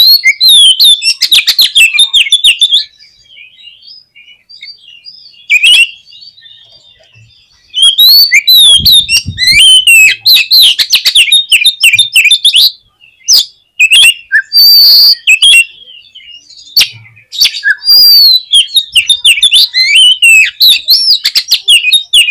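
Oriental magpie-robin (kacer) singing a loud, fast, varied song in bursts of a few seconds separated by short pauses. Rapid whistles, trills and harsh chattering clicks are packed together. This is the excited song used as a lure to provoke a caged magpie-robin into singing.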